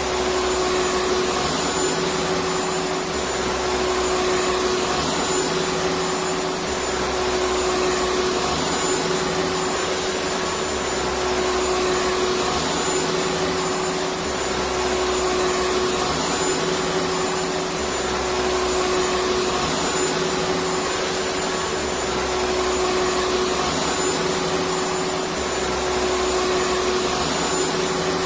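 Vacuum cleaner running steadily: a continuous rushing of air with a steady motor whine, and a low hum that swells and drops every couple of seconds.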